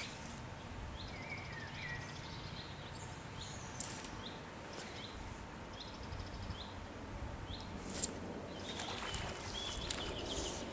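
Small birds calling, a string of short repeated chirps with a brief warble, over a steady low outdoor rumble. Two sharp clicks stand out, about four seconds apart.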